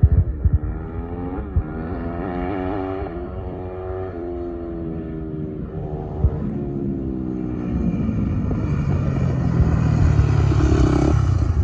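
Suzuki RM-Z450 four-stroke single-cylinder motocross bike being ridden hard, its engine pitch climbing and dropping in steps as it accelerates through the gears. The engine sound grows louder again over the last few seconds.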